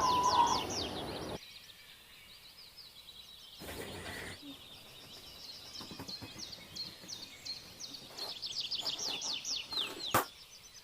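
Small birds chirping in runs of quick, high, downward-sliding calls, with one sharp pop near the end.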